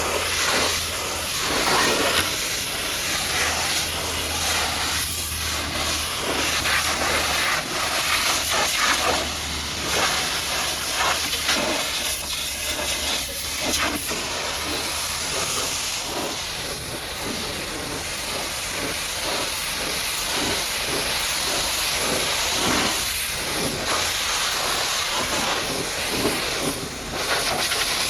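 Pressure washer's high-pressure water jet spraying onto a muddy truck: a continuous hiss that swells and dips as the jet moves over different surfaces, with a low steady hum underneath for about the first half.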